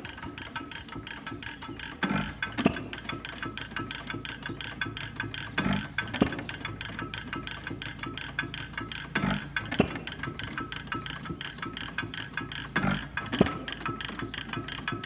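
Root & Vandervoort 2½ HP Easy Cooler hit-and-miss gas engine running: a pair of loud strokes about every three and a half seconds as it fires, with steady mechanical clicking from the engine between firings.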